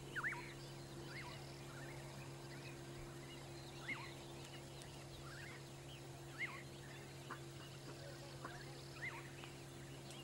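Faint bird calls: short chirps that rise and fall, repeating every second or two, over a steady low hum.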